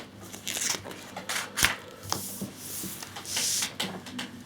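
Handling noise from unpacking the next issue of a model kit: paper and packaging rustling with scattered light taps and clicks, and one sharper knock about one and a half seconds in.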